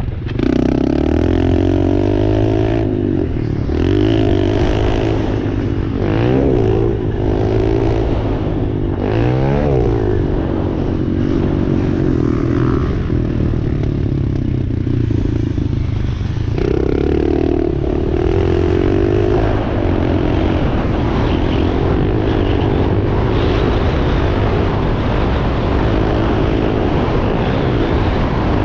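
Dirt bike engine running hard, its revs rising and falling repeatedly as the rider opens and closes the throttle through gear changes, with wind and chassis rattle under it.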